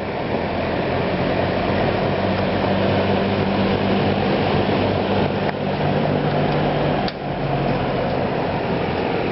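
Vintage Windsor P-23 box fan running, a steady rush of air over a low motor hum. There is a sharp click about five and a half seconds in, and another near seven seconds where the sound briefly dips and the hum changes.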